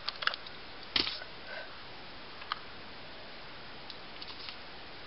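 A few small clicks and taps from craft materials being handled and set down on a work table: a quick cluster at the start, a louder tap about a second in, another about two and a half seconds in, and faint ticks near the end.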